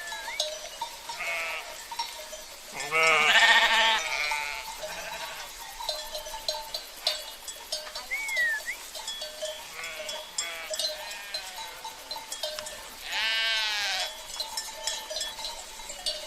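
Sheep bleating twice, loudly about three seconds in and again near the end, over the steady clinking and ringing of livestock bells.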